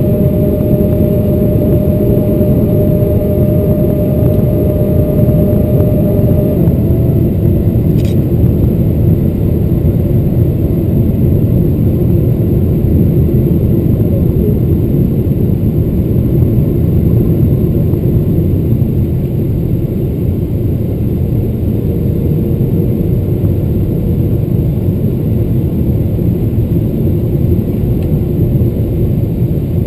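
Steady jet-engine and airflow rumble inside the cabin of a Boeing 777-300ER powered by GE90-115B engines, on approach. A whining tone stops about six seconds in, and there is a faint click about two seconds later.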